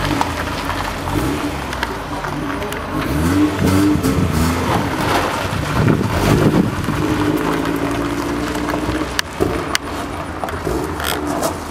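First-generation Mazda Miata's four-cylinder engine revving as the car pulls away and accelerates, its pitch rising and falling with the throttle. The car is being driven hard just after a Sea Foam engine-cleaning treatment.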